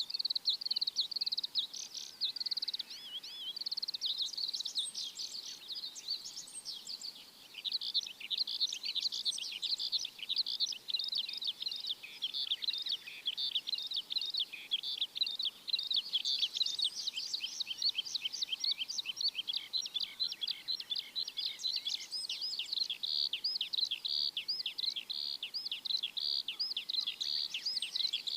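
A chorus of many small birds chirping rapidly and continuously, a dense overlapping stream of quick high chirps with only brief lulls.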